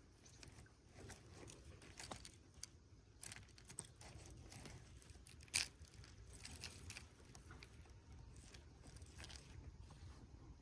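Faint scattered clicks and small rustling, handling noises, with one sharper click about five and a half seconds in.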